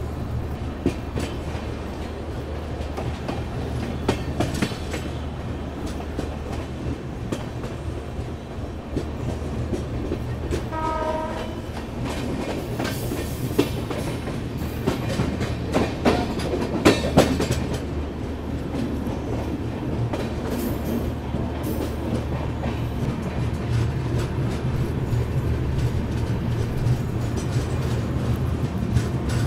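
Express passenger train rolling into a station, heard from an open coach doorway: a steady running rumble with wheels clacking over rail joints and points. A short train horn sounds about eleven seconds in.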